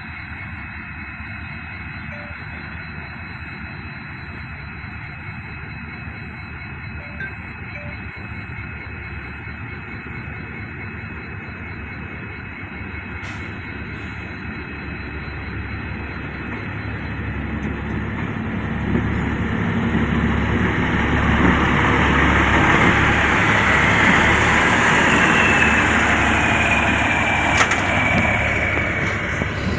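A large engine-driven vehicle drawing near and passing: a steady rumble grows over the second half, is loudest about three-quarters of the way in, and carries a whine that slides down in pitch as it goes by before easing off.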